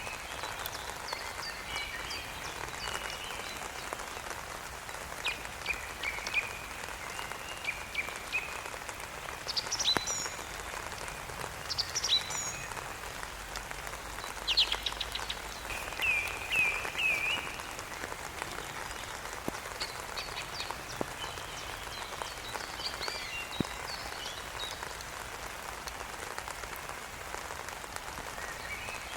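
Steady rain hiss, with scattered short, high chirps over it, several of them clustered in the middle.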